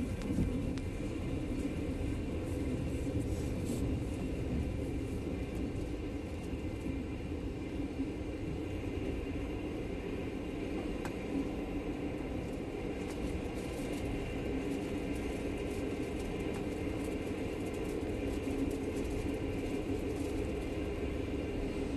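Steady rumble of a moving passenger train heard inside the carriage, wheels running on the rails, with a few faint clicks.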